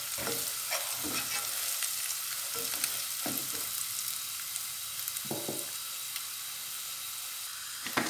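Chopped onion with turmeric and red chilli powder sizzling steadily in hot oil in a pot, while a slotted spatula stirs it, scraping and knocking against the pot now and then.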